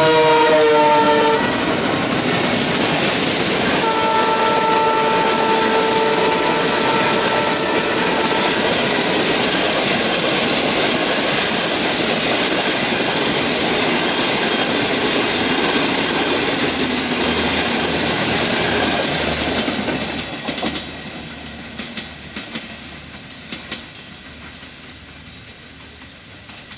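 CNR CKD8H diesel locomotive passing close at speed with its horn sounding, the chord dropping slightly in pitch as it goes by; a second steady horn blast sounds from about 4 to 8 seconds in. The passenger cars then rush past with a loud, steady rolling noise that fades after about 20 seconds, leaving a few wheel clicks as the train recedes.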